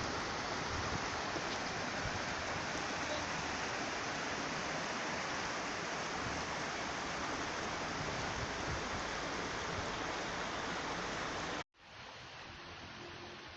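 Steady rushing water of a stream. About twelve seconds in it cuts off abruptly, and a quieter, softer rushing follows.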